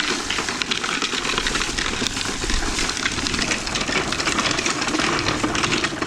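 Rock salt scattering from a salt spreader onto a driveway: a steady, dense patter of grains.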